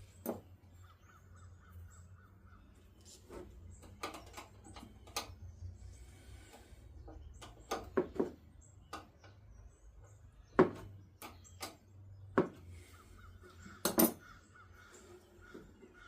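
Hand tools clinking and knocking on metal parts, with several sharp clanks and two short runs of rapid ratchet-like clicking, one near the start and one near the end.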